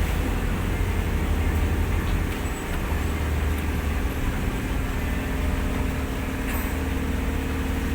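Steady low drone of an engine running at an even speed, with a constant deep hum.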